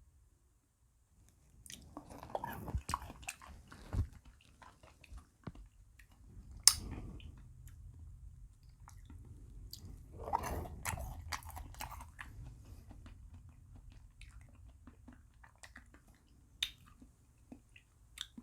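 Close-miked chewing and crunching of small frozen bead ice cream pellets, in several bouts, broken by a few sharp clicks.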